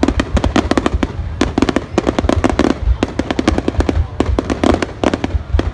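Fireworks display going off in a rapid, continuous run of bangs and crackles, many a second, over a low rumble.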